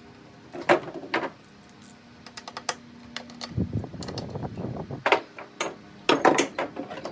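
Sharp clicks and knocks of tools and small parts being handled, a dozen or so irregular strikes with a softer rustle between them, during hands-on repair of a Stihl BR340 leaf blower.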